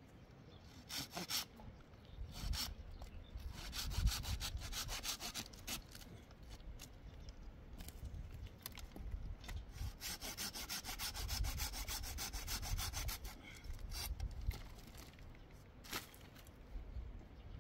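Rhythmic rasping strokes, like something being scraped or sawn, coming in runs of a few seconds: two longer runs and a few short bursts and single knocks between them.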